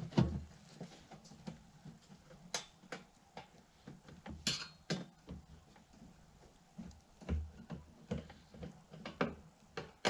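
Irregular clicks and light knocks of screws being driven by hand with a Phillips screwdriver, fastening the hose shield onto the leaf vacuum's housing.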